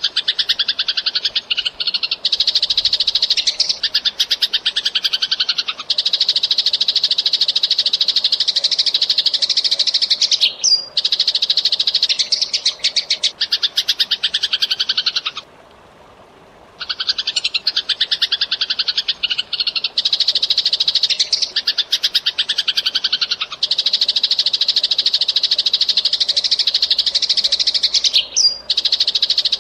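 Eurasian tree sparrows chirping in a fast, dense, unbroken chatter, with one pause of about a second and a half just past the middle.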